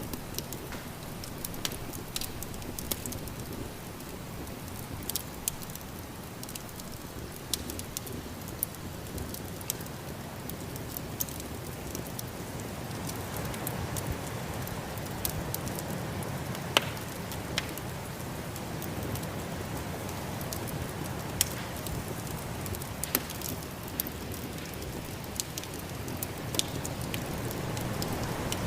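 Wood fire crackling in a fireplace, with irregular sharp pops scattered throughout. Under it runs the steady rushing noise of a snowstorm, which grows slightly louder about halfway through.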